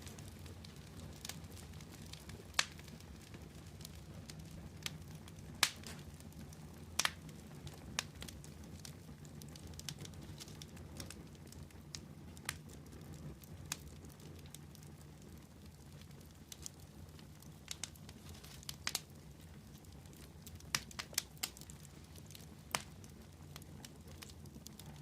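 Wood fire crackling: irregular sharp pops, some in quick clusters, over a steady low rumble.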